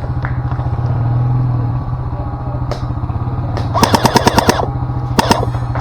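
An airsoft gun firing on full auto: a quick burst of about eight shots about four seconds in, then two more shots just after, over a steady low engine rumble.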